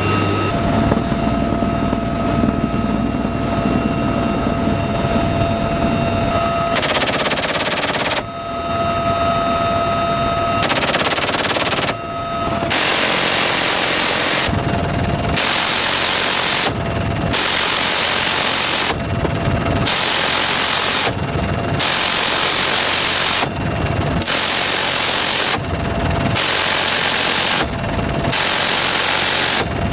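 UH-1Y Venom helicopter gunship with its turbine whine, then from about seven seconds in a long string of machine-gun bursts, each a one-to-two-second stream of fire with short pauses between, over the steady whine.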